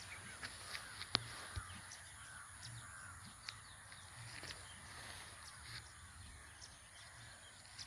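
Faint bird calls: a run of short arched calls in the first three seconds, over a steady high hiss, with scattered light clicks.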